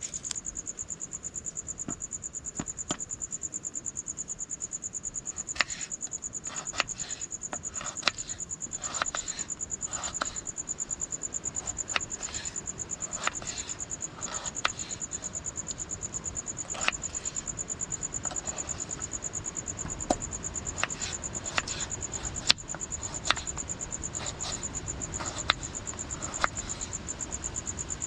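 Crickets chirping in a continuous high, rapidly pulsing trill, with scattered sharp clicks or taps at irregular intervals.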